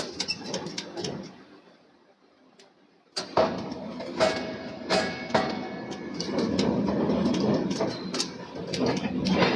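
Forging-shop machinery clattering, with many sharp metal knocks and some ringing metallic tones. It dies away to near silence for about a second and a half, then starts again abruptly about three seconds in.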